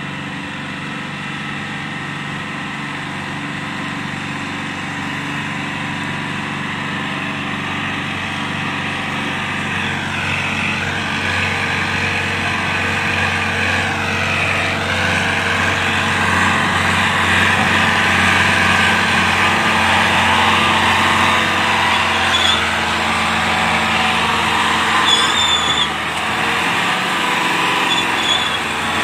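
Massey Ferguson 385 tractor's diesel engine running, growing slowly louder, with its pitch dipping briefly twice midway. A few short high squeaks come near the end.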